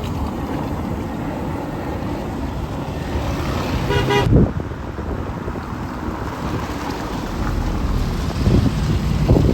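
Road traffic passing close by, with a vehicle horn sounding a single rising toot about four seconds in that cuts off sharply; another loud vehicle passes near the end.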